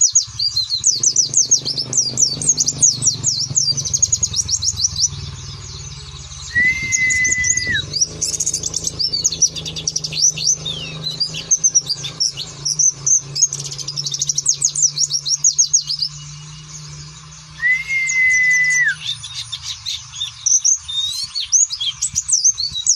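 Pleci (white-eye) twittering in fast, high, chattering runs, broken by louder song bursts. Twice a flat whistled note of about a second drops off at its end, over a faint low steady hum.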